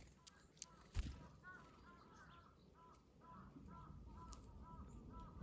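Faint bird calls: a rapid, continuous run of short, arched chirping notes, with a single knock about a second in.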